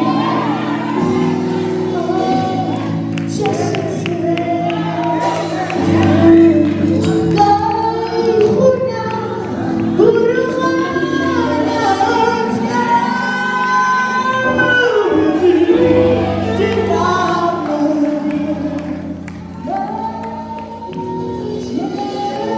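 A female voice singing a song with sustained, held notes over instrumental backing music; it gets quieter for a moment near the end.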